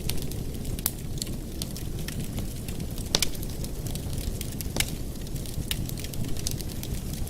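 Wood fire burning in a fireplace: irregular sharp crackles and pops over a steady low rumble, with two louder pops about three and five seconds in.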